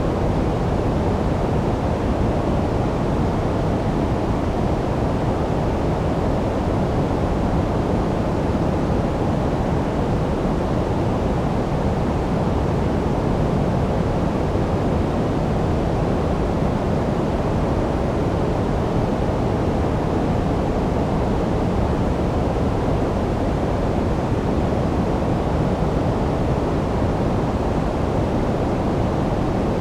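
Steady generated sleep noise, even and unchanging, deep and dull rather than bright, with most of its weight in the low and middle range and little hiss on top.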